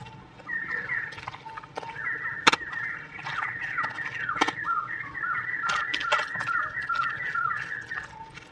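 A bird calling over and over in quick short notes that each drop at the end, going on for most of the stretch and stopping just before the end. Two sharp clicks stand out, the louder about two and a half seconds in.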